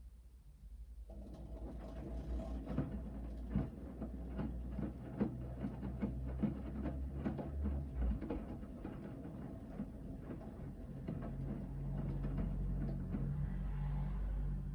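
Hoover VHD 9163 ZI washing machine in its main wash: after a pause, the drum starts turning about a second in. The motor hums steadily under a run of irregular soft knocks from the wet laundry tumbling in the drum, and the hum grows a little louder near the end.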